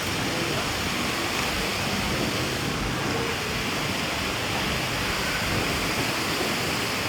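Steady rushing outdoor ambience with faint distant voices now and then.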